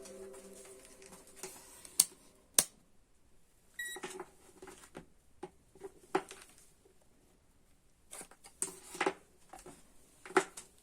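Scattered sharp clicks and light knocks of tools and small parts being handled during a repair, with two loud clicks about two seconds in and a brief high tone near four seconds in. The tail of background music fades out at the very start.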